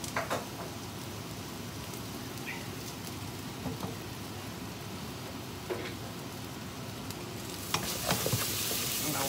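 Chopped onions, garlic, ginger and chillies sizzling in a stainless steel pan, with a wooden spatula stirring and scraping and now and then clicking against the pan. The sizzle and clatter grow louder near the end as the stirring picks up.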